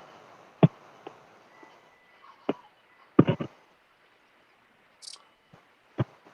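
Fireworks going off at a distance: a scattered series of sharp pops and bangs, with a quick run of three about three seconds in.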